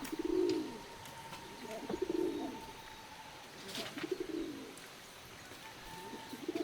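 A dove cooing: three low, soft coos about two seconds apart. A faint steady high tone runs under the first half, and a short click sounds about four seconds in.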